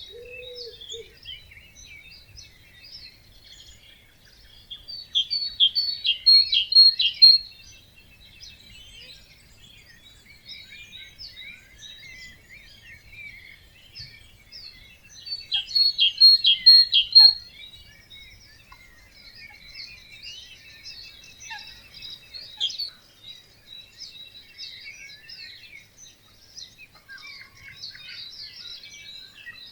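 A dawn chorus of many birds singing together. One nearby bird repeats a loud short song of rapid, evenly spaced notes about every ten seconds, standing out above the others.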